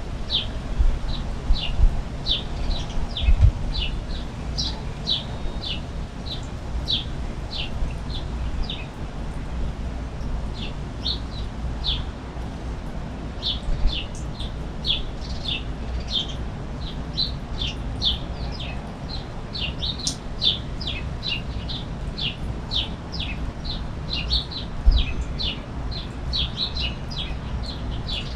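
Small birds chirping over and over: short, quick, high notes, several a second, with a lull of a few seconds in the middle, over a steady low rumble.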